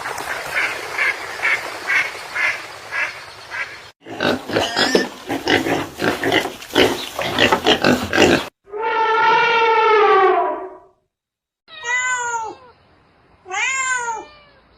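Several separate animal sound clips cut back to back: a rapid run of repeated calls, then a busier noisy stretch, then a long drawn-out call. Near the end come two short cat meows, each rising and then falling in pitch.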